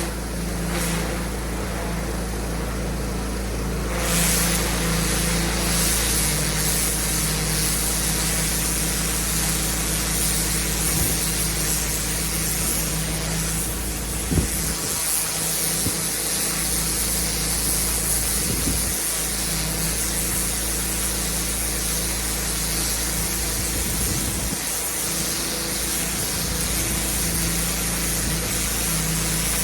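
Pressure washer running steadily, its engine humming under the hiss of the high-pressure water spray; the spray hiss grows louder about four seconds in, with a single sharp click around the middle.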